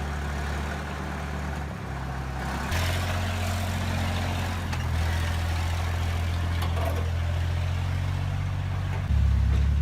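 Engine of a loaded Ural off-road truck driving through mud: a steady low drone that gets louder about three seconds in and again near the end.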